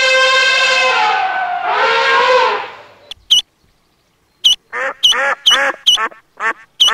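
A rooster's crow ends with a long held note and a last short phrase that stops about three seconds in. After a brief silence, ducks quack in a quick series of short calls, mixed with sharp high chirps.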